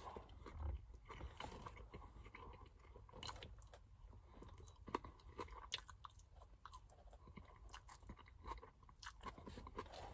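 A person chewing mouthfuls of a Burger King Whopper: faint, irregular wet chewing clicks with a few small crunches.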